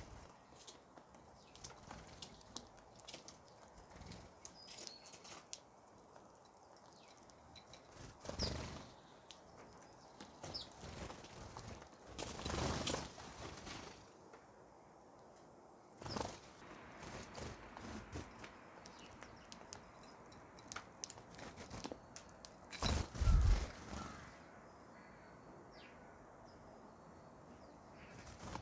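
Small birds feeding, giving scattered short high chirps, with a few louder bursts of rustling noise.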